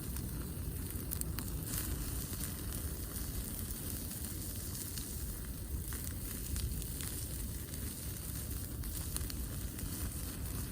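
Wood campfire crackling with scattered small pops over a steady sizzle of food cooking on it.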